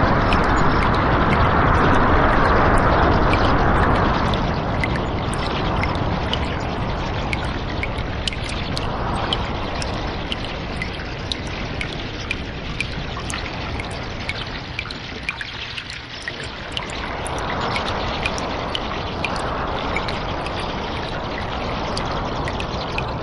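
Cave water ambience: water washing and trickling in slow swells, loudest at the start and again after about seventeen seconds, with many small sharp ticks scattered over it.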